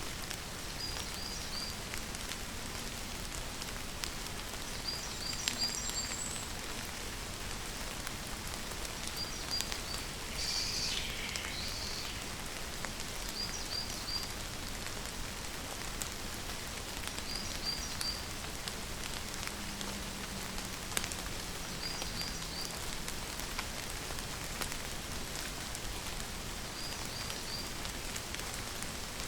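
Steady rain falling, with scattered drops ticking sharply. Over it a bird repeats a short group of three or four high chirps about every four seconds, and gives one longer falling call about ten seconds in.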